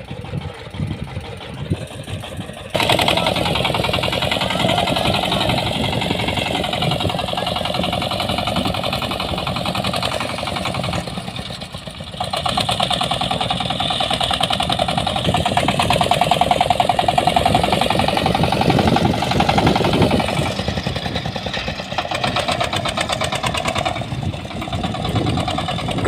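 YTO 350 P mini tractor's engine running steadily, turning suddenly louder about three seconds in and shifting in level again partway through as the load changes.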